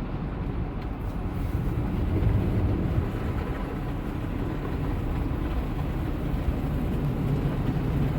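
Steady low vehicle rumble, even throughout, with no sharp sounds.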